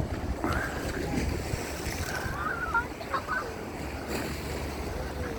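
Outdoor seafront ambience: wind rumbling on the microphone over a steady wash of sea noise, with a few short, wavering high-pitched calls in the background.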